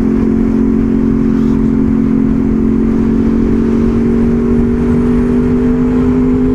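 A 2002 Honda VFR800 Interceptor's V4 engine pulls at steady revs on the move, its note rising slowly as the bike gains speed, over a low rumble of wind.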